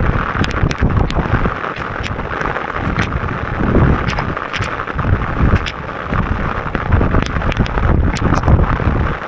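Hail and rain pelting tent fabric in a dense patter studded with sharp ticks of hailstones, while gusts of wind buffet the tent in surging low rumbles.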